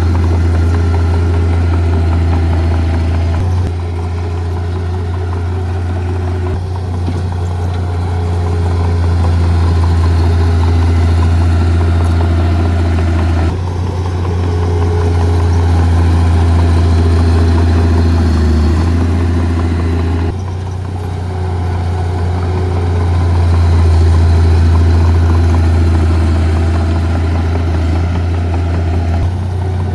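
Diesel engines of heavy earthmoving equipment running steadily with a deep, low drone, the sound changing abruptly a few times.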